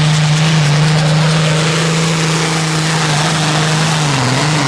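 Pulling tractor's engine running hard at high revs under load, a steady loud drone whose pitch sags briefly near the end and then comes back up.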